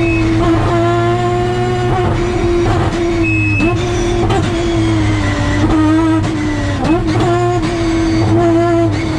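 Mazda RX-7's peripheral-ported three-rotor 20B race engine heard from inside the cabin, running hard at high revs. The note holds fairly steady, with brief dips in pitch several times as the revs fall and recover.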